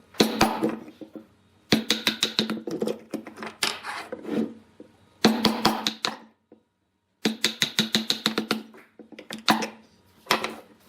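Quick runs of sharp wooden knocks and taps, several a second, in clusters broken by short pauses, with a near-silent gap about six seconds in.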